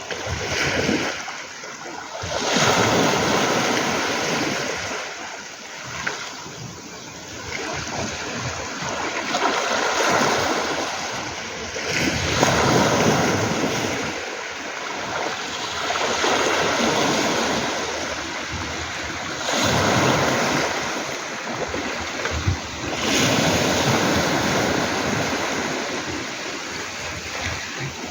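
Sea waves breaking and washing up a pebble beach, surging and receding every few seconds.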